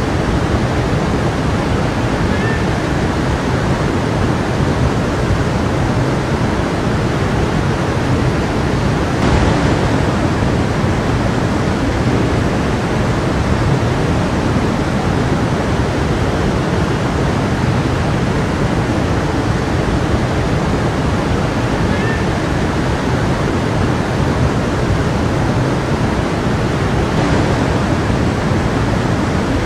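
A stream's water rushing steadily, with a brief louder surge about nine seconds in.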